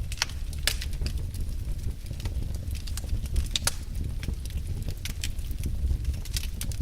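Wood fire burning in a fireplace: irregular sharp crackles and pops over a low, steady rumble.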